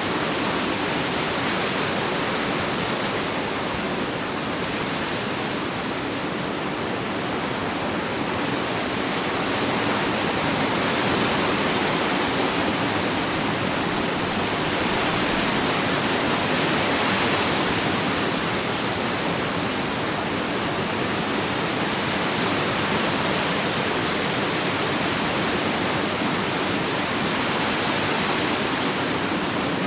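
Ocean waves washing onto a beach in a continuous rush of surf, swelling and easing slowly every several seconds.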